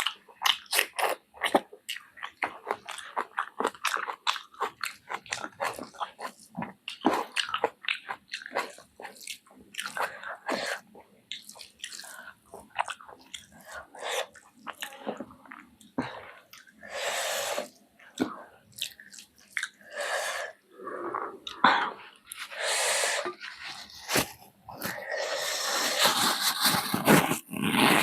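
Close-up mouth sounds of a person eating chicken feet curry with rice: steady chewing and biting with many quick wet smacks and crunches, and a few longer noisy sounds in the second half.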